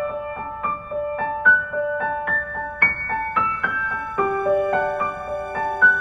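Background piano music: a gentle melody of single notes played about two to four a second.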